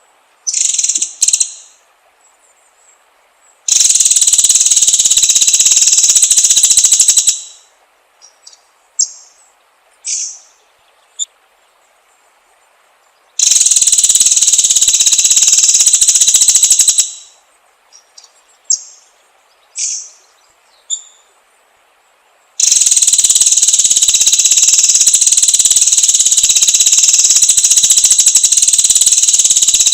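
White-rumped shama (murai batu) calling: short, sharp high notes in between three long, loud, rapid buzzing trills, the last of which runs through the end.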